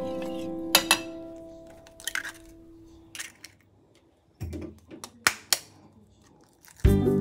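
Sharp clinks of a metal spoon against a stainless steel bowl and eggs being tapped on the bowl's rim and cracked open, a few scattered taps with two close together near the middle. A plucked-guitar music phrase dies away at the start and music comes back near the end.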